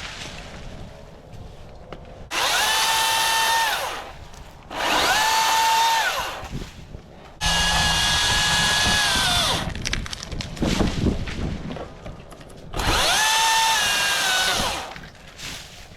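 Chainsaw cutting tree limbs in four separate bursts, each revving up to a steady high whine for a second or two and then dropping back.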